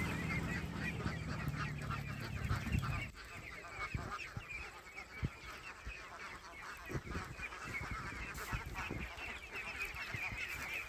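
A flock of domestic waterfowl calling in a dense, continuous chatter of many rapid overlapping calls. A low engine hum runs underneath and stops about three seconds in.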